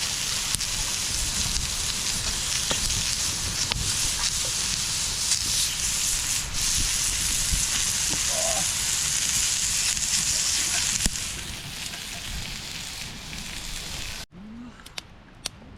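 Food sizzling on a camp grill: a steady hiss with scattered pops and crackles. It cuts off abruptly near the end, leaving a much quieter background with a few clicks.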